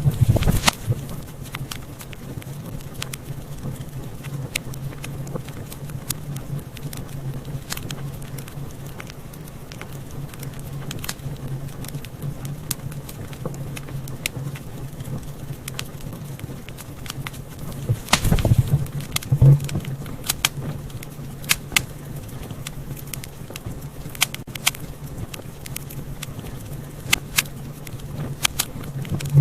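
Wood fire crackling in a fireplace: irregular small pops and snaps over a steady low hum, with a cluster of louder pops about eighteen seconds in.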